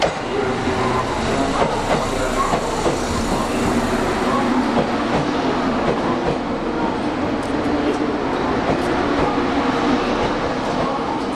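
JR Kyushu 783 series electric train rolling slowly alongside the platform as it pulls in: a steady running noise with occasional light clicks.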